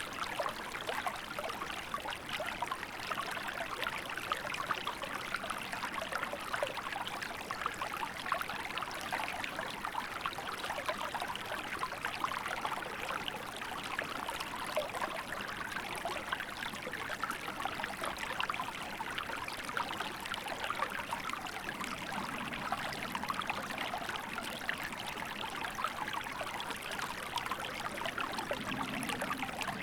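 Small river flowing in winter, with steady babbling and trickling water.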